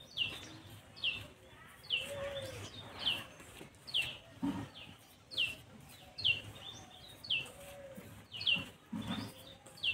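A small bird chirping over and over, one short falling chirp about once a second, with a dove cooing low a few times.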